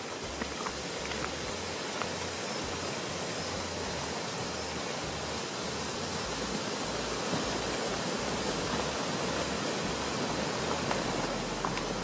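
A steady rushing noise, with a few faint clicks.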